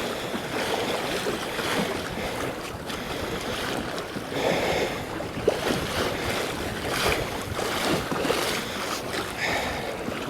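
Choppy sea slapping and splashing against a kayak hull, with a few louder splashes, while strong wind buffets the microphone.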